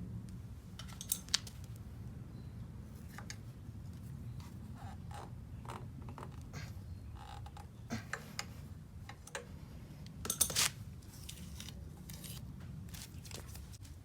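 Light clicks and scrapes of small hard objects being handled, a few scattered through and a brief cluster about ten seconds in, over a low steady hum.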